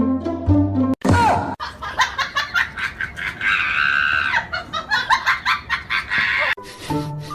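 Rapid bursts of laughter with a high, held shriek in the middle, after about a second of music.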